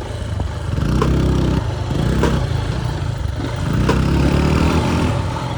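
Motorcycle engine running on the move, revving up twice with rising pitch, with a few sharp clicks over it.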